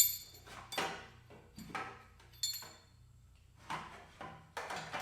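Metal hand tools knocking and clinking while a wrench and socket are worked on the wheel's axle nut. The knocks come about once a second, a couple of them with a brief metallic ring.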